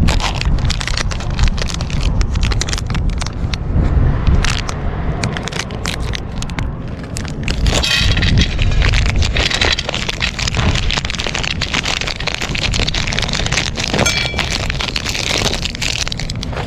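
Strong wind buffeting the microphone in a constant low rumble, with many short crackles and clicks running through it.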